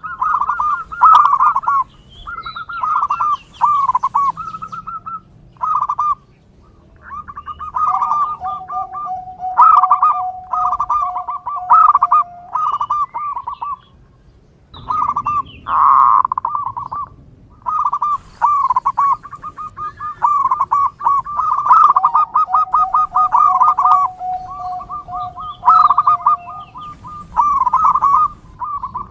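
Zebra dove (perkutut) cooing: repeated phrases of quick, stuttering coo notes with short pauses between them, and twice a long, steady lower note held under the phrases.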